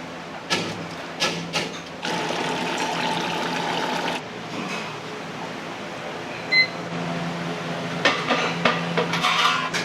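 Kitchen clatter: a few sharp clinks, then a steady rush for about two seconds and a single short high beep near the middle, with more clattering near the end.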